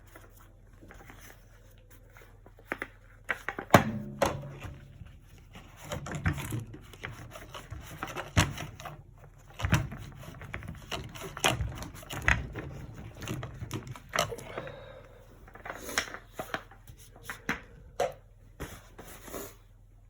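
Acrylic painting work: an irregular series of taps, clicks and short scrapes of painting tools against the canvas and palette, over a faint steady low hum.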